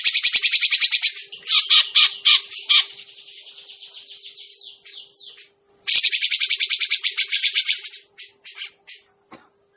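Cucak jenggot (grey-cheeked bulbul) calling in rapid, harsh chattering trills. There are two loud bursts, one at the start and one about six seconds in, with a softer trill between them and a few separate notes near the end.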